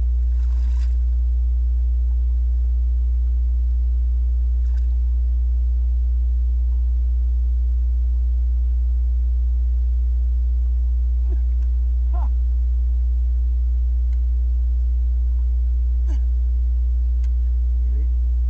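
A steady low hum that holds level throughout, with a few faint, even tones above it and a few faint short sounds.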